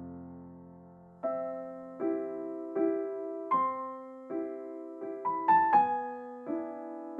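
Soft piano background music: a held chord fades out, then single notes and small chords are struck one after another, each ringing and dying away.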